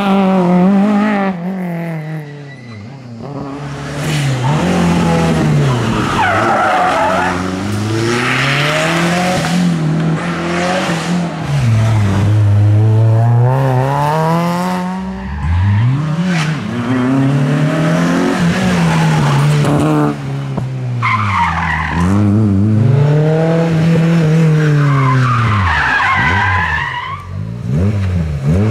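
Rally car engine revving hard, its pitch climbing and dropping again and again through gear changes and lifts, with tyres squealing in the corners.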